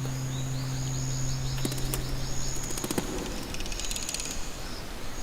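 Wetland ambience: a quick run of small high chirps over the first three seconds, with a high steady whine that comes and goes. A low hum stops about three seconds in, and there are a couple of brief bursts of rapid ticking.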